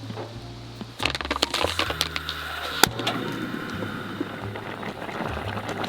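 A quick run of sharp cracks and clicks starting about a second in, the loudest single crack near three seconds, followed by a softer crackle.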